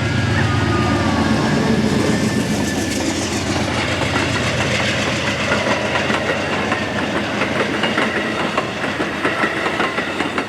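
Amtrak passenger train rolling past as it picks up speed, its wheels clicking rapidly over the rail joints. A low rumble early on gives way to denser, faster clicking.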